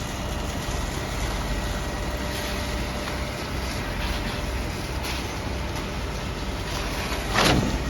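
Construction machinery running with a steady rumble during a concrete pour. A brief, louder burst sweeps down in pitch near the end.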